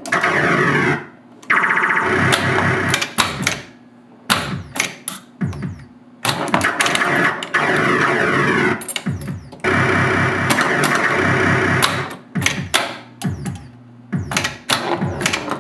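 Williams Gorgar pinball machine in play: electronic synthesized sound effects in several loud stretches of sweeping, gliding tones, broken by short gaps. Sharp clicks and knocks from the playfield are heard throughout.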